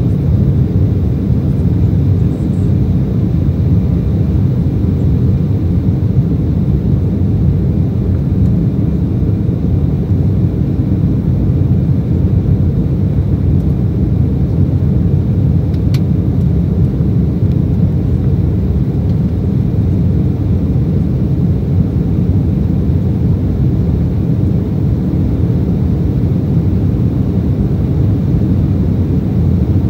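Steady, loud low rumble inside the cabin of an Embraer E190 jet airliner: the airliner's General Electric CF34 turbofans and airflow heard from a window seat. A faint click about halfway through.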